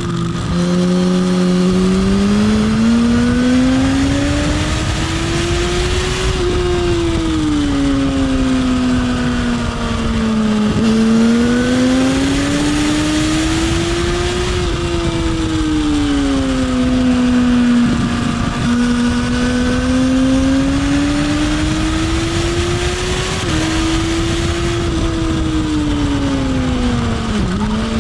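Motorcycle engine running hard on a track lap, its pitch rising and falling over several seconds as the bike accelerates and slows, with a few brief dips in pitch, over steady wind rush.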